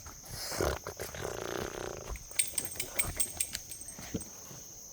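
A dog breathing heavily for about two seconds, then a quick run of light metallic clicks, over a steady high drone of insects.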